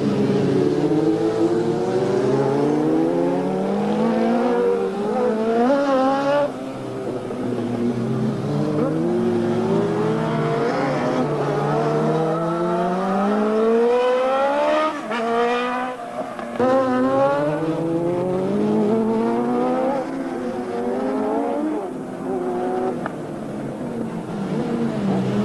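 Racing superbike engines at full throttle, several bikes overlapping: each note climbs steadily through a gear and drops sharply at the shift, over and over as the machines pass.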